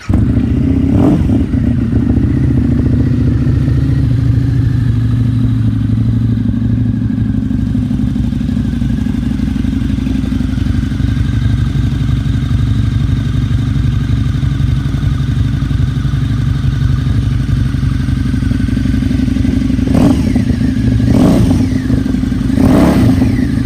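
2007 Harley-Davidson VRSCR Street Rod's liquid-cooled 1130 cc V-twin, fitted with aftermarket TAB exhaust pipes, idling steadily. It is blipped once about a second in and revved in three short bursts near the end.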